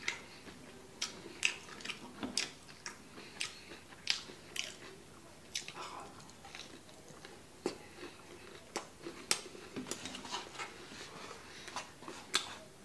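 A person chewing and biting crispy breaded chicken katsu: irregular crunches and wet mouth clicks, several a second, coming in clusters.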